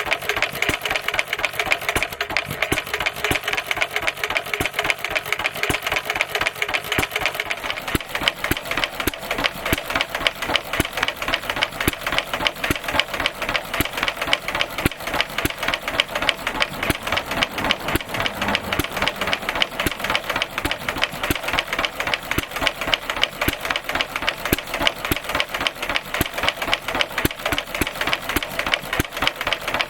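Stuart 1/2 hp stationary engine running steadily at a fast, even beat, fitted with an extra silencer.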